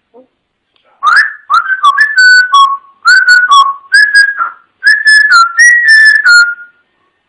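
A parrot whistling a tune: a run of about a dozen loud, clear notes stepping up and down in pitch, in several short phrases.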